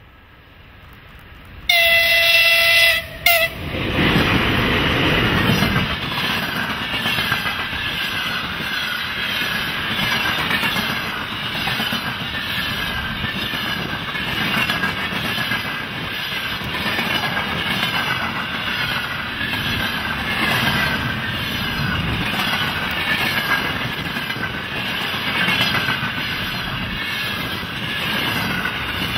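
VL10 electric locomotive's horn sounds one long blast and a short one about two seconds in. The locomotive and a long freight train of container wagons then pass close by, their wheels clattering rhythmically over the rail joints.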